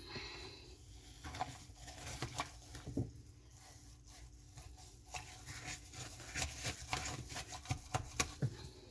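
Irregular light clicks, taps and knocks from hands handling plastic parts inside a dishwasher tub, busiest in the last few seconds.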